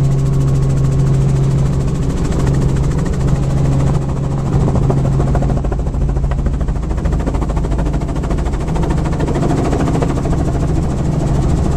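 Helicopter running steadily nearby, a continuous low engine and rotor hum.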